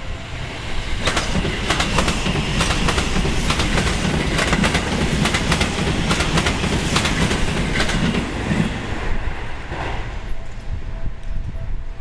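Seibu 001 series Laview limited-express train passing through without stopping, running as a deadhead. Its wheels clatter over the rail joints in quick, uneven clicks over a low running hum, from about a second in until it fades near nine seconds.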